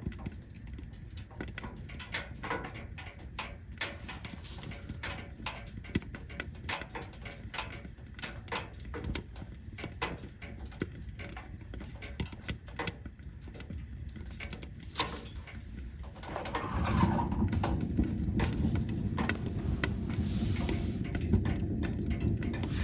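Burning firewood crackling, with many small sharp snaps and pops. About two-thirds of the way through, a louder steady low rush sets in under the crackle.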